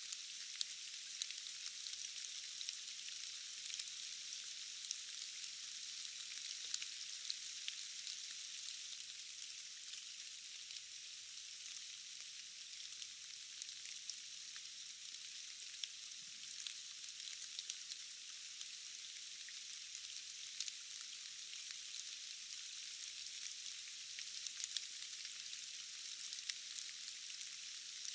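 Steady rain falling on forest foliage: an even hiss, scattered with individual drop ticks.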